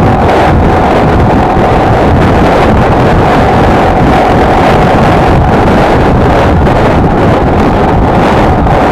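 Wind buffeting the microphone over the steady running of a Honda XLR125R's single-cylinder engine at a constant cruising speed.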